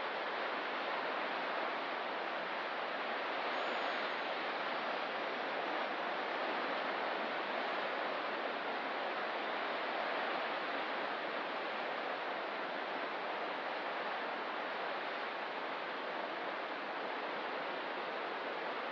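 Ocean surf as a steady, even hiss with no distinct wave breaks or swells.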